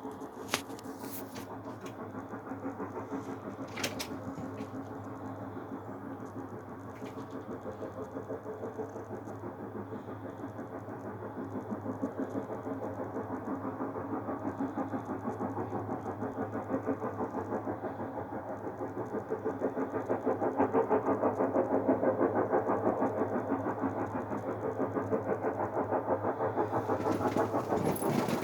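An unidentified mechanical-sounding drone with a fast, even pulsing, growing louder partway through. A couple of sharp clicks stand out near the start.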